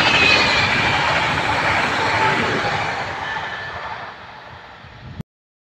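Electric multiple unit passing at speed, wheels and running gear rumbling on the rails, the noise fading steadily as the last cars go away. The sound cuts off abruptly about five seconds in.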